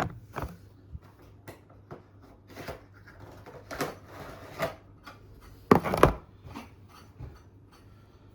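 A model airliner's cardboard box and packaging being opened and handled by hand: scattered knocks and scraping, rustling strokes, the loudest a close pair about six seconds in.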